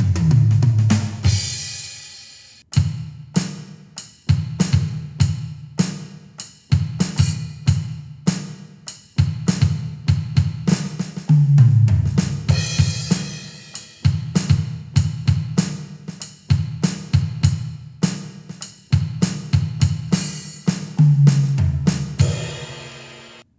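Drum beat played on a Donner DED-200 electronic drum kit's module sounds: kick, snare and hi-hat keep a steady groove. Tom fills lead into cymbal crashes, once at the start, once about halfway through and once near the end.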